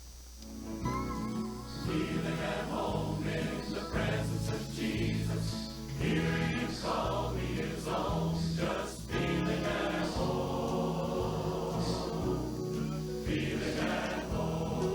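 Choral gospel song beginning about a second in, a choir singing over musical accompaniment.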